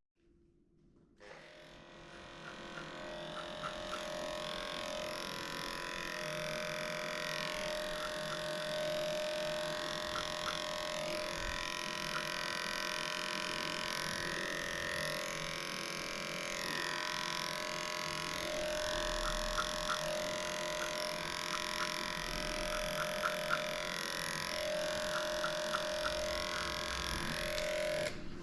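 Electric dog-grooming clippers running steadily, shaving through a matted coat, with small clicks from the blade; the hum starts about a second in.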